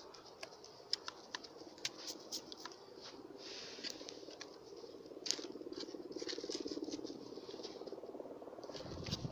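Wood fire crackling, with many small irregular pops over a steady low buzz.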